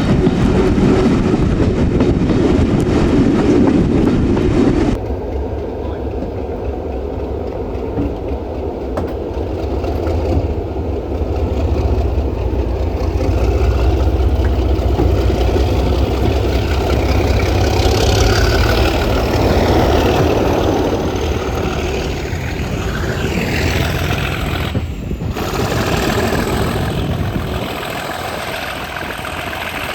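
Class 37 diesel locomotive's English Electric engine running as the train rides over the rails, a steady deep rumble. The sound changes abruptly about five seconds in, and a high whine rises slowly in pitch in the second half.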